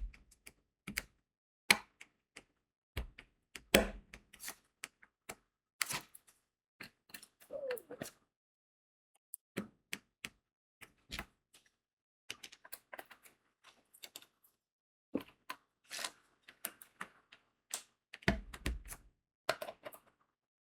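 Irregular light clicks and taps of a diamond-painting pen pressing crystal beads onto the sticky canvas, with a denser, louder flurry of taps near the end.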